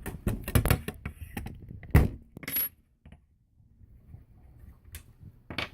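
Metal tools and rifle parts clinking and clicking as a screwdriver is handled and set to the screws of an airsoft rifle. There is a quick clatter of clicks at the start, a loud knock about two seconds in followed by a short ringing clink, then a couple of softer clicks near the end.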